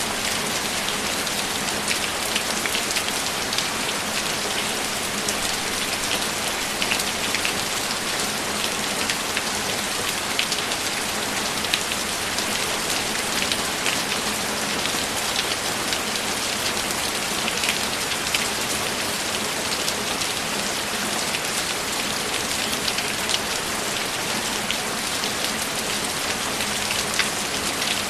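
Steady rain falling, an even hiss dotted with many small drop ticks, with no thunder.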